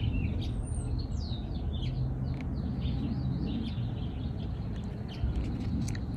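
Birds chirping and twittering in the background, busiest in the first few seconds, over a steady low rumble.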